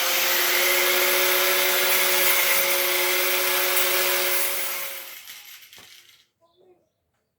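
Handheld electric power tool running at full speed, a loud hiss with a steady motor whine. About five seconds in it is switched off and winds down to a stop.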